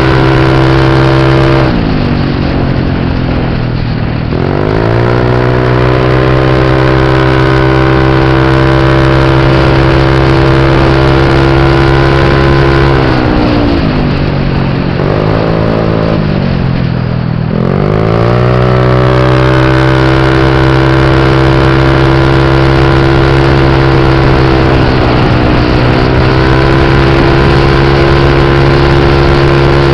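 Motorbike engine running under throttle at steady revs. The pitch falls twice, about two seconds in and again around thirteen seconds, as the throttle eases off, then climbs back and holds steady.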